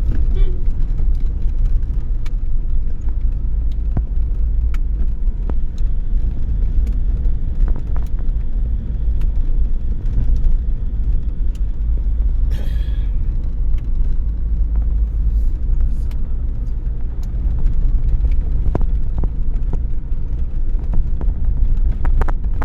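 Car driving along the road: a steady low rumble of engine and tyres, with scattered small knocks and rattles and a brief higher sound about twelve seconds in.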